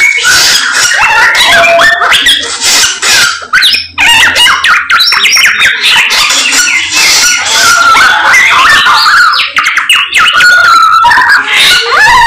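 A samyong bird singing vigorously: a loud, unbroken stream of rapid, varied chattering and whistled notes, with a short pause about four seconds in.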